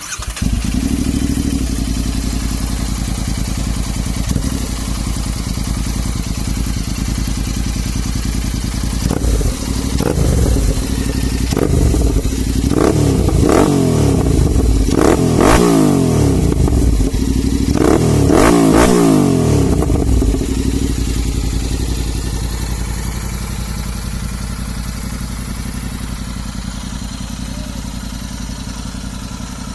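Royal Enfield Interceptor 650 parallel-twin engine running through a freshly fitted SS Moto full-system aftermarket exhaust. It starts abruptly at the beginning and idles. From about ten to twenty seconds in, the throttle is blipped a series of times, each rev rising and falling. It then settles back into a steady idle.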